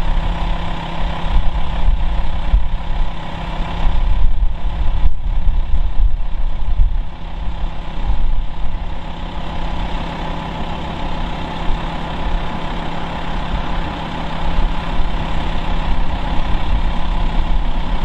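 British Rail Class 08 diesel shunter's six-cylinder diesel engine running with a steady, low engine note as the locomotive approaches on the line.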